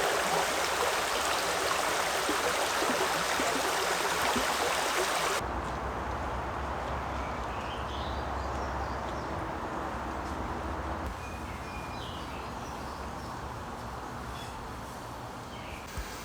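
Steady rush of running water or rain. It cuts off abruptly about five seconds in, giving way to a quieter outdoor ambience with a low rumble and a few faint, short chirps.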